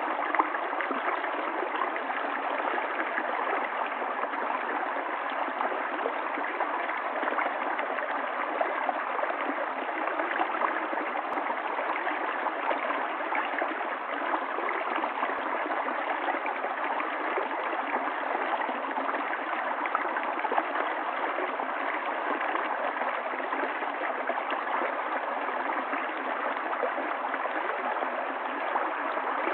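Stream water running in a steady, even rush, without deep rumble or high hiss.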